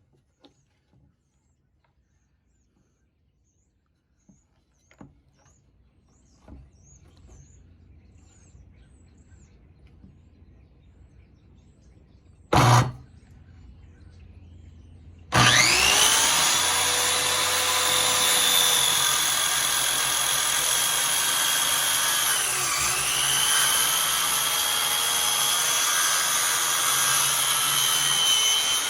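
Electric power saw cutting the end off a board: a short trigger blip, then a couple of seconds later the motor spins up with a rising whine and runs steadily, its pitch sagging briefly once partway through.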